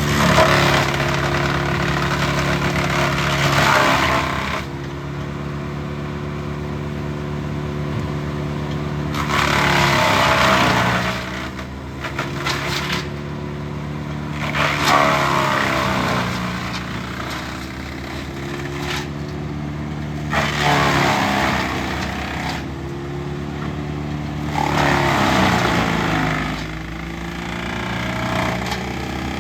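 Morbark wood chipper's engine running steadily, with about five loud surges of chipping as branches are fed in, each one dragging the engine's pitch down before it recovers.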